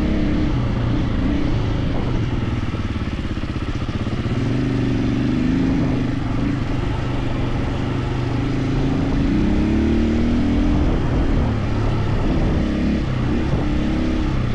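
KTM 450 EXC enduro motorcycle's single-cylinder four-stroke engine under way off-road. It revs up and down again and again as the rider works the throttle and the gears.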